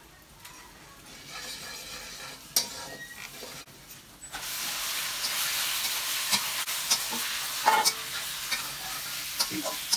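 Raw chicken pieces tipped into hot oil in a metal kadai, the frying sizzle jumping up suddenly about four seconds in and running loud after that. A wooden spoon clicks and scrapes against the pan as the chicken is stirred.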